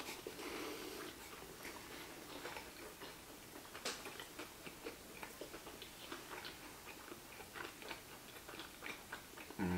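Two people chewing mouthfuls of sushi rolls close to the microphone: a steady run of soft, wet mouth clicks and smacks, with one sharper click about four seconds in. A voice starts right at the end.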